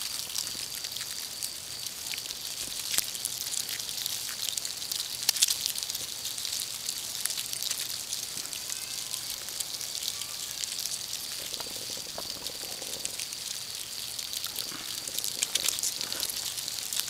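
Dense, steady crackling of a mass emergence of 17-year periodical cicadas crawling over the bark and dropping under a tree, like rain or a bowl of Rice Krispies. A thin steady high tone runs underneath.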